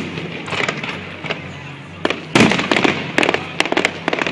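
Aerial fireworks bursting: scattered bangs, then a loud boom about two and a half seconds in, followed by a quick run of sharp cracks.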